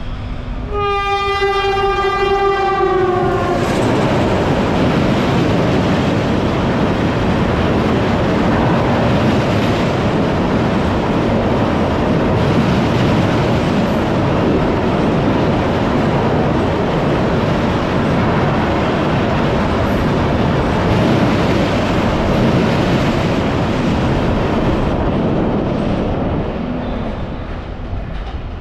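Indian Railways train locomotive sounding one long horn blast about a second in, its pitch dropping slightly as it ends, then the steady rumble and clatter of the coaches running past, easing off near the end.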